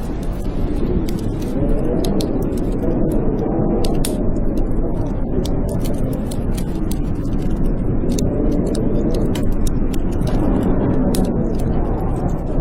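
Blizzard wind howling, its pitch swelling and falling in slow waves over a steady low rumble. A wood fire crackles throughout, with many small sharp pops.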